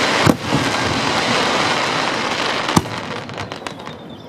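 Aerial fireworks bursting: sharp bangs about a third of a second in and near three seconds, over a dense hissing crackle that thins out toward the end. The booms are distorted by a digital camera's microphone.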